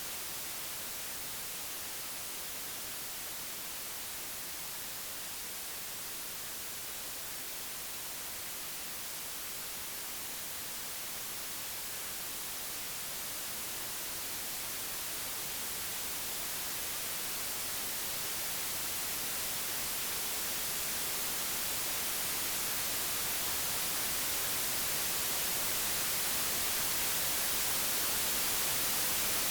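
Computer-generated white noise: an even, steady hiss with no tones or clicks, brightest in the highs, slowly growing a little louder through the second half.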